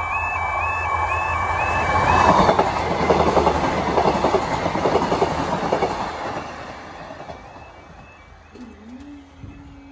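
East Midlands Railway Class 156 diesel multiple unit passing over the level crossing, its wheels clattering over the rail joints, loudest between about two and six seconds in and fading away after. Before it arrives the crossing's warbling alarm is sounding, drowned out as the train reaches the crossing, and a low steady hum begins near the end.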